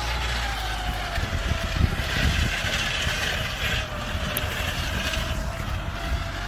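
A vehicle engine running steadily with a low rumble and a wavering whine, with a few heavier knocks and a stretch of hiss about two to four seconds in.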